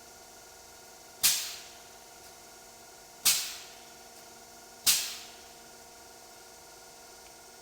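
Three sharp bangs, at uneven gaps of about two and one and a half seconds, each cutting in suddenly and dying away within half a second, over a steady faint machine hum.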